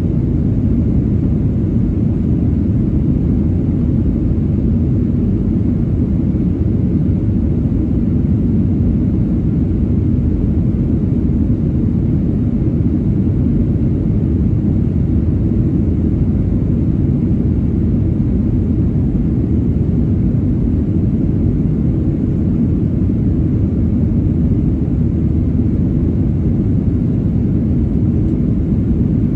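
Steady cabin roar inside a Boeing 737-900ER, its CFM56-7B jet engines running at a constant setting with airflow noise. It is an even, deep rumble that does not change.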